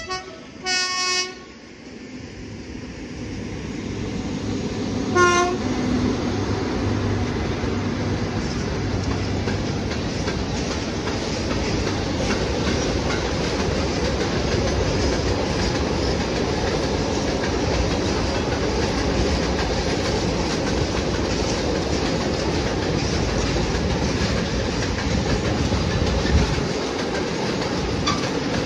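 PKP Cargo ST48 diesel locomotives sounding short horn blasts, the Rp1 warning signal: one right at the start, one about a second in and a brief one about five seconds in. A train then rolls past over the crossing as a steady loud rumble with wheel clatter, building up over the first few seconds.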